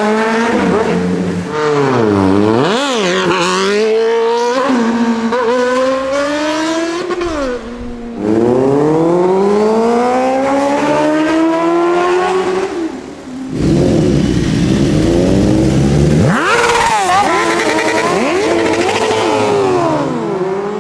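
Sport motorcycle engines revving hard, their pitch rising and falling, with long falling sweeps as bikes pass by. A rough, noisy stretch comes in the middle.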